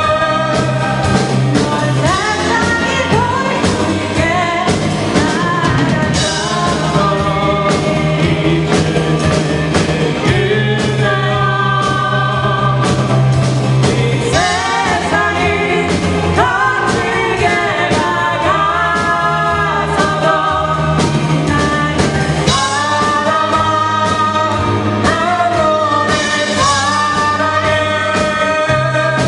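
An amateur band playing a rock-style song live, with a lead singer over held bass notes and a steady drum-kit beat.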